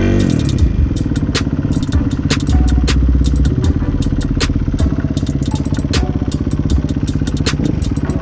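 Kawasaki KX250 dirt bike engine, its pitch dropping as it slows down at the very start, then running steadily at low revs, with many sharp clicks and rattles over it.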